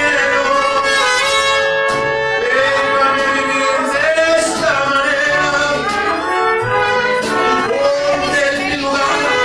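Mexican mariachi-style music with trumpets, violins and a singing voice, playing steadily with held notes and no break.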